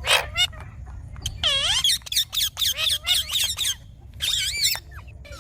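Indian ringneck parrot (rose-ringed parakeet) calling: a quick string of short, shrill squawks and chirps that bend up and down in pitch, with a brief pause a little before the last burst of calls.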